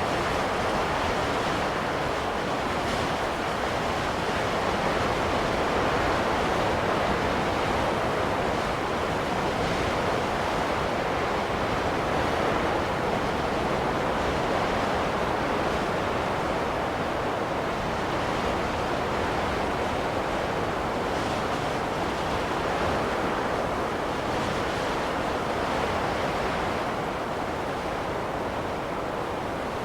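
Steady snowstorm wind, an even rushing with no tones.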